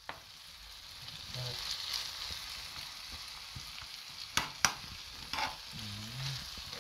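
Flaked saltfish, onion, tomato and sweet pepper sizzling in a hot frying pan as a metal spoon stirs them. The sizzle swells in the first second. Two sharp knocks of the spoon against the pan come about four and a half seconds in.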